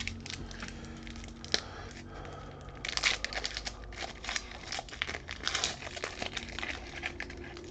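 Crinkling and rustling of plastic trading-card packaging being handled, with small crackling clicks that get denser from about three seconds in.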